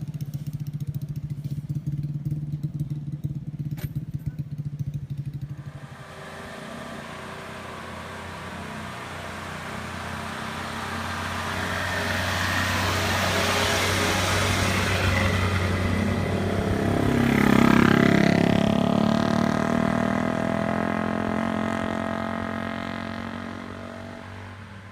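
A vehicle engine runs steadily close by, then stops abruptly about five seconds in. Another engine approaches, growing louder to a peak about three-quarters of the way through, where its pitch glides as it passes, then fades away.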